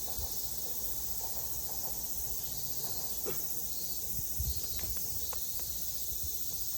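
Steady high-pitched chorus of insects, unbroken throughout, with a few faint clicks and taps in the middle.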